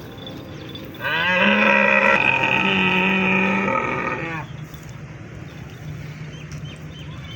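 A cow mooing once: one long call of about three seconds, starting about a second in.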